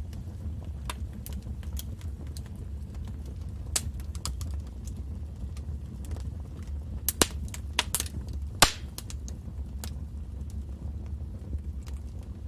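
Wood fire crackling in a fireplace: irregular sharp pops and snaps over a low steady rumble of burning, with a cluster of louder pops a little past the middle, the loudest about two-thirds of the way in.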